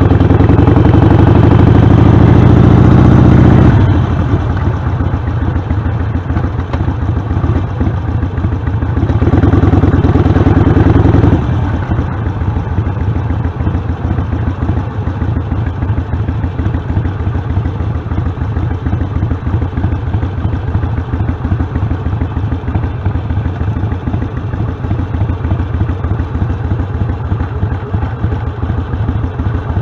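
Harley-Davidson Sportster V-twin with Vance & Hines Short Shots Staggered exhaust pipes, accelerating hard at the start and again about nine seconds in, then running steadily at low revs.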